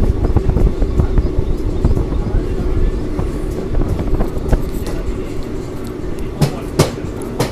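Passenger train running on the track: a steady rumble of coach wheels on rail with rapid clicking, and a couple of sharp clacks near the end.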